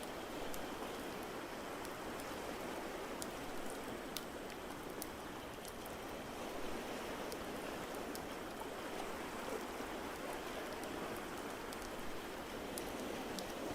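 Log fire crackling, with sharp irregular pops, over a steady rush of ocean waves.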